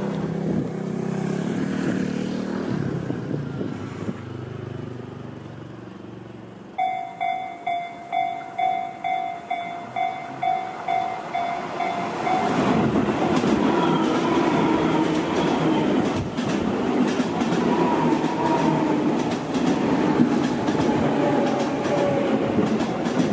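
A railway level-crossing warning bell starts dinging steadily, about two strikes a second, roughly seven seconds in. About halfway through, a Tobu Tojo Line electric commuter train passes close by: wheels rumbling on the rails and a motor whine that rises and falls, drowning out the bell.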